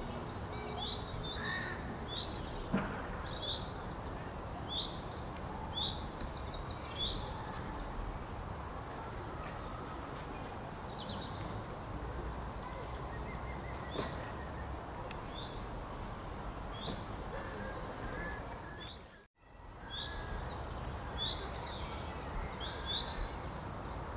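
Small birds chirping and singing in short, repeated high notes, many of them falling in pitch, over a steady background hiss. Everything cuts out for a moment about two-thirds of the way through.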